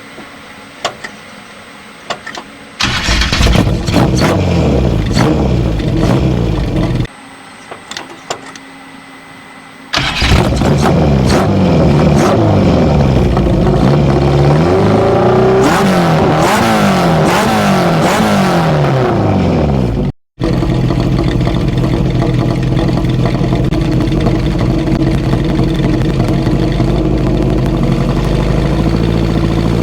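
Datsun B210's fully tuned A15 four-cylinder engine, breathing through FCR41 carburettors and a stainless exhaust. It runs for a few seconds, then is revved again and again, pitch rising and falling, for about ten seconds. After a brief break it runs on at a steady speed.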